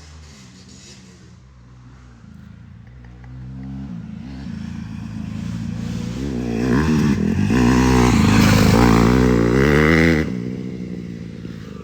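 Dirt bike engine revving, its pitch rising and falling with the throttle, growing steadily louder over several seconds and then dropping off sharply when the throttle is shut near the end.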